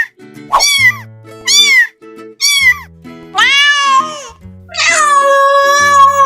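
Cats meowing: three short, high meows about a second apart, then two longer drawn-out meows, the last one still going at the end. Background music with changing chords plays underneath.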